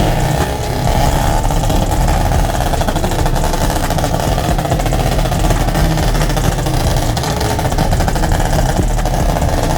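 A car running steadily, engine and road noise without a break.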